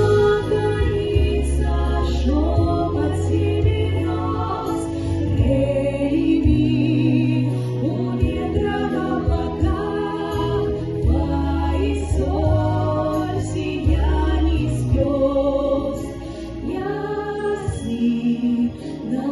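A song: singing voices, layered like a small choir, over an instrumental backing with held bass notes that change every second or two.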